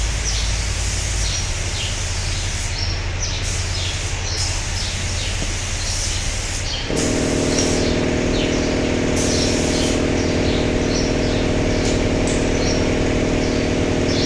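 Small birds chirping repeatedly over a low steady hum. About halfway through, a steady machine drone of several even tones starts and runs on.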